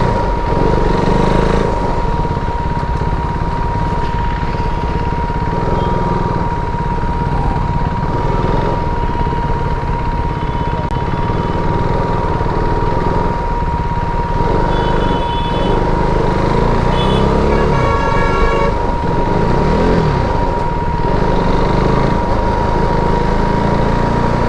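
KTM RC 390's single-cylinder engine running through slow traffic, revving up and down a few times, while other vehicles' horns honk several times in the second half.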